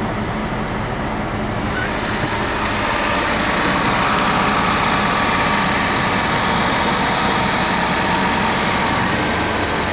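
Suzuki Carry mini truck's engine running steadily, growing louder with more hiss about two seconds in.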